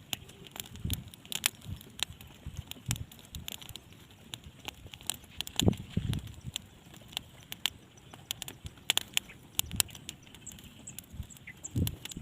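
Irregular sharp clicks and patter mixed with a few soft low thumps, over a faint steady hiss.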